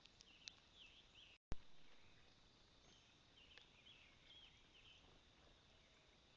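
Faint, scattered bird chirps and twitters, high-pitched, in the first second and again a couple of seconds later. About a second and a half in the sound drops out for an instant and comes back with one sharp click, the loudest sound here.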